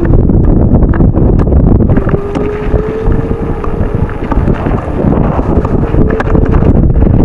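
Strong wind buffeting the microphone in dense, gusting rumbles, over a faint steady hum that rises slightly in pitch, with scattered light ticks.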